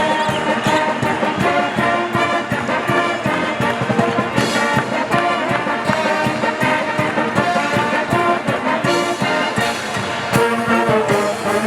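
Brass-led band music with a steady drum beat, trombones and trumpets playing over it.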